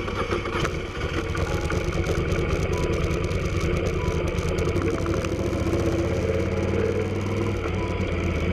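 Motorcycle engine idling steadily just after being started.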